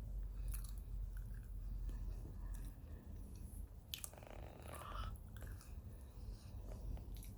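A person chewing and crunching microwave-baked cornstarch chunks, with scattered short crisp bites.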